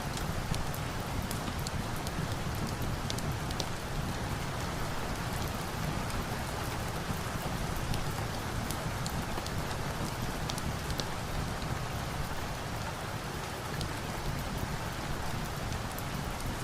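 Steady rain mixed with a crackling fire: a constant, even rushing hiss with small sharp pops scattered irregularly through it.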